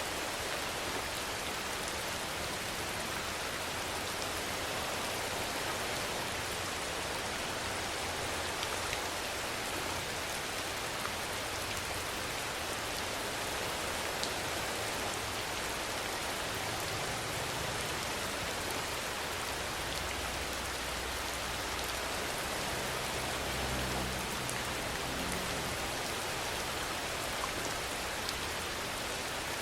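Steady rainfall, an even hiss with scattered single drop ticks, and a faint low rumble in the second half.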